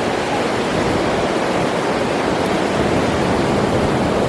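Niagara River rapids rushing, a loud, steady wash of water noise.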